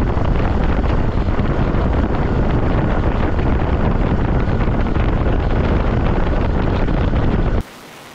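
Loud wind buffeting on the microphone of a moving motorcycle. Near the end it cuts off suddenly to a quieter steady hiss.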